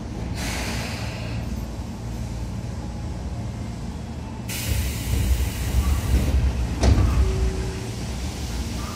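Tobu 9000 series electric commuter train heard from inside the car: a steady low rumble with two bursts of air hiss, one just after the start and a longer one about halfway in, and a single knock near the end.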